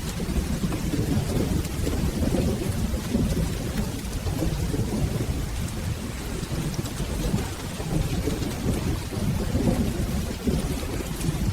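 Steady rain with a continuous low rolling thunder rumble underneath, no sharp clap.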